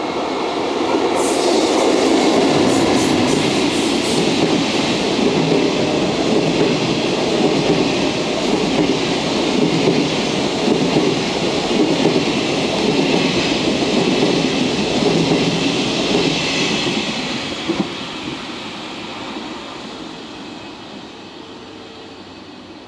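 EF65 electric locomotive hauling a train of Chiki flatcars loaded with long rails passes at speed, with a steady rumble of wheels on track. A run of sharp clicks comes a second or two in. The sound fades away over the last few seconds as the end of the train goes by.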